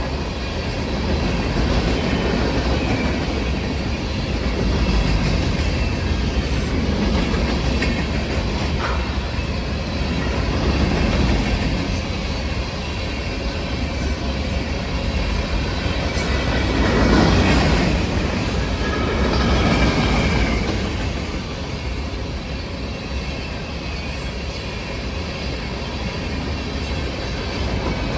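Norfolk Southern freight train rolling past, the steel wheels of its railcars clacking over rail joints in a steady rumble that swells loudest about seventeen seconds in.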